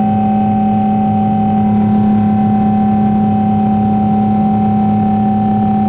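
Boeing 777-200ER jet engines running steadily in flight, heard from inside the passenger cabin: a loud, even drone with a strong low hum and a steady higher whine.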